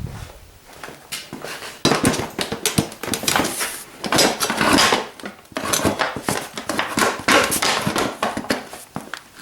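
Plastic body panels being handled and fitted onto a pit bike, with repeated clattering, knocks and rustling that get busier about two seconds in.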